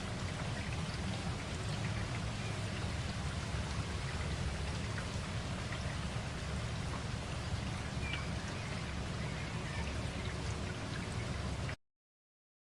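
Steady rain with scattered individual drop hits, then it cuts off suddenly into silence about a second before the end.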